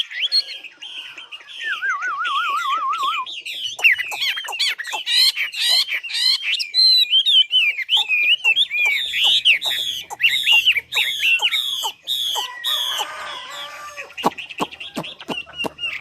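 Songbird singing a long, varied song of fast whistled notes and rapid sweeping trills, with a lower wavering trill a couple of seconds in.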